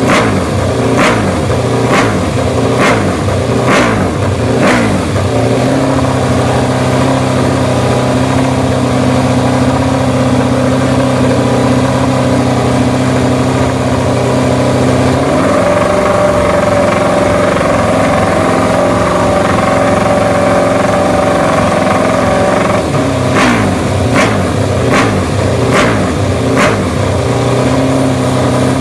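Aprilia V4 racing motorcycle engine revved through a loud exhaust. For the first five seconds the throttle is blipped in quick, sharp revs about once a second. The engine is then held at a steady speed, stepped up to a higher steady speed about halfway through, and dropped back. Another run of quick blips follows near the end, before it is held steady again.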